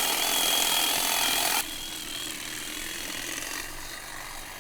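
A steady mechanical rattling noise with a faint high whine, cutting off abruptly about one and a half seconds in and leaving a quieter hiss.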